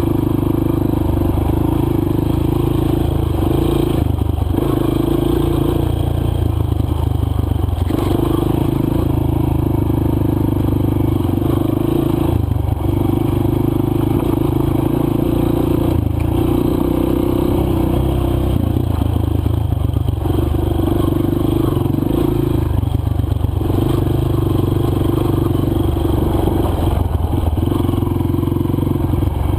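Single-cylinder four-stroke dirt bike engine running steadily under way, with short dips every few seconds as the throttle is rolled off and back on. Scraping and clattering from the loose, dry trail can be heard along with it.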